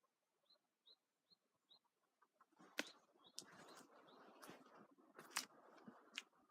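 Faint bird chirps, four short ones in quick succession, then a few seconds of faint rustling noise with several sharp clicks.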